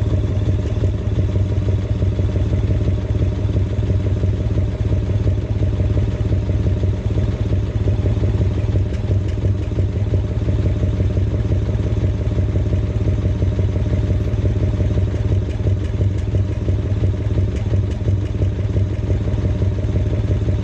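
Yamaha XV1600 Road Star's air-cooled V-twin running at a steady idle, its exhaust note coming through the mufflers with an even pulsing beat.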